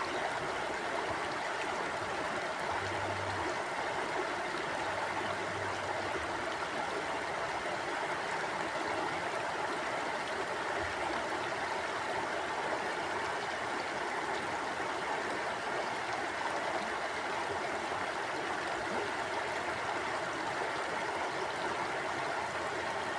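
River water flowing steadily over rocks, an even, unbroken rush with a little gurgling.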